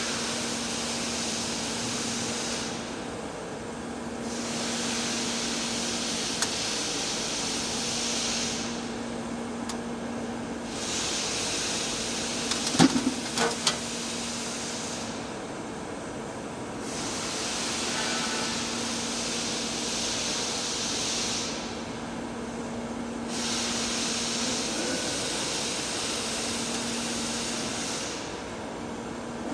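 TIG welding arc hissing on thick-walled pipe, the hiss easing off for a couple of seconds roughly every six seconds, over a steady low hum. A few quick clinks come about halfway through.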